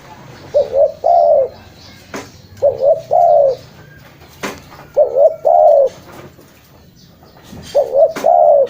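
Spotted dove (tekukur) cooing: four repeated phrases, each two short coos followed by a longer arched coo, about every two and a half seconds. A few faint clicks fall between the phrases.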